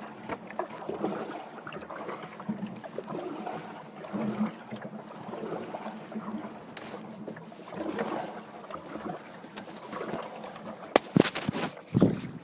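Water lapping and splashing against a kayak, with a few sharp knocks near the end.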